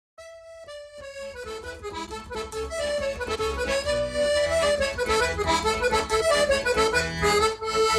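Accordion-led traditional-style music, starting from a single held note and swelling into a full, rhythmic tune that cuts off abruptly at the end.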